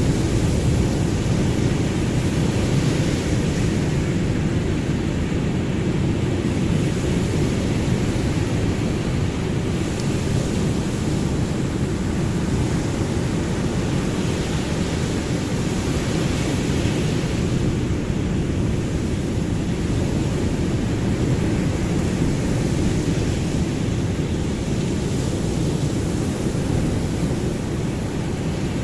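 Ocean surf: a steady, deep rush of waves that swells and eases slowly every several seconds.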